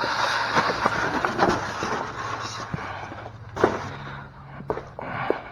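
Handling noise from step-rail parts and their packaging being moved: rustling for the first couple of seconds, then several separate knocks and clatters, the loudest about three and a half seconds in.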